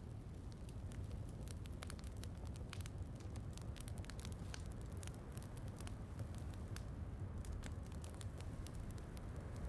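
Wood fire crackling in a fireplace, with many small sharp pops at irregular intervals over a steady low rumble.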